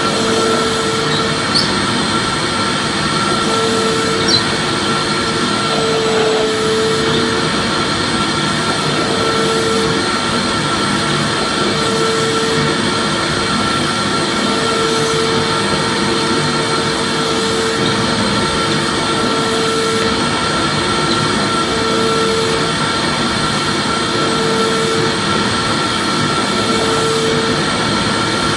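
Vacuum cleaner running steadily: an even rushing hiss with a thin steady whine. A low hum swells and fades about every two and a half seconds.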